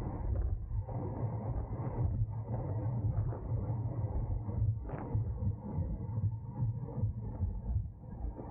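Steady low rumble of wind and road noise from a road bike riding at race speed in a pack.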